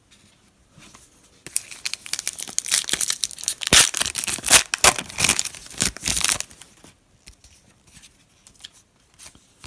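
Trading-card pack's foil wrapper being torn open and crinkled: a run of sharp crackling lasting about five seconds, then only faint light ticks near the end.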